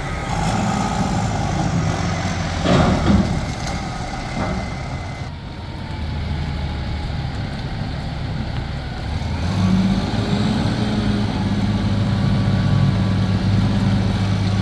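Heavy diesel engine of a Nippon Sharyo DH408-95M pile driver running steadily. About three seconds in there is a brief noisy burst, and from about ten seconds the engine picks up and runs louder.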